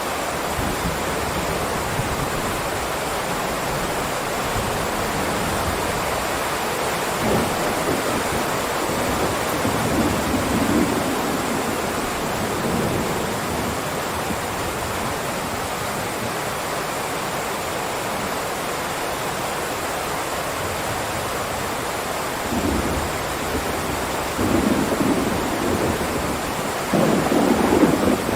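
Heavy rain downpour, a steady dense hiss that swells louder a few times, most strongly in the last few seconds.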